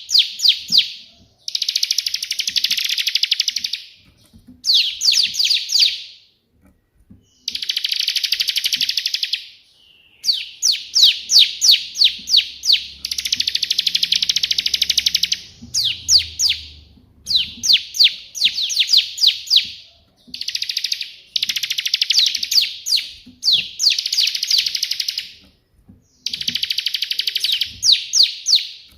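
Bar-winged prinia (ciblek) singing loudly in the 'tembakan' style of the white perenjak. Its bouts of rapid, sharp, high repeated notes alternate with fast trills, each lasting a second or two with short breaks between.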